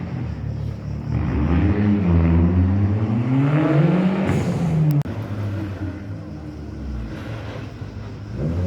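Rally car engine revving hard, its pitch climbing to a peak about four seconds in, then dropping off sharply about a second later and running lower before rising again near the end.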